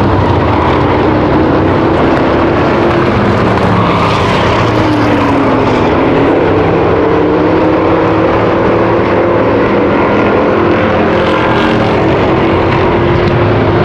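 A pack of V8 stock cars and race trucks running hard in a race. The engines blend into a continuous loud drone, and one engine note dips about five seconds in, then climbs again as cars pass and accelerate.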